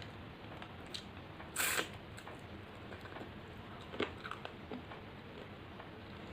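Mouth sounds of someone eating rice and fish curry: scattered soft wet clicks of chewing, with one brief louder noisy sound about a second and a half in.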